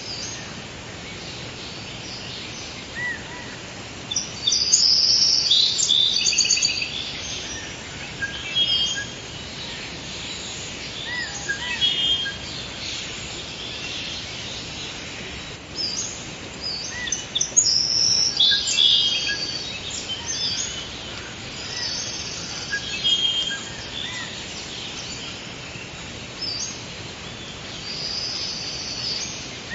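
Forest ambience: several birds chirping and singing in short bursts and trills over a steady background hiss, with the busiest, loudest song about five seconds in and again around the middle.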